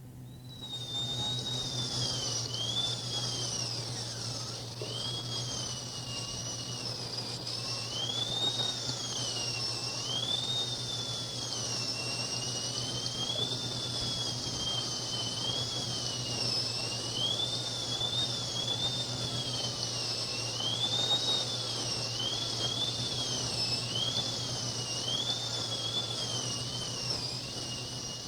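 High whistling tones gliding up and down in smooth, wavering swoops about once a second, over a steady low hum.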